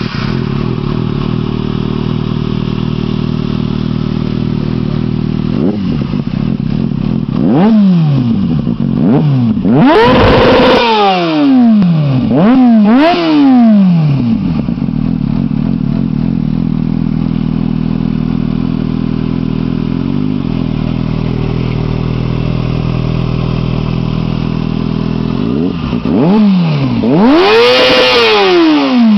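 Kawasaki Ninja motorcycle engine idling steadily, with a series of quick throttle revs that rise and fall back to idle: a cluster of short blips building to bigger revs about a third of the way in, then a long steady idle, and a few more revs ending in a big one near the end.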